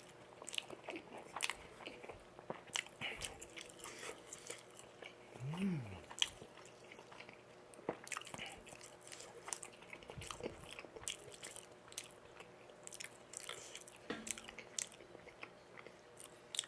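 Close-miked eating sounds: chewing and biting of tteokbokki rice cakes and jeon, with many short wet clicks and smacks of the mouth. About five and a half seconds in comes a short hum that rises and falls in pitch.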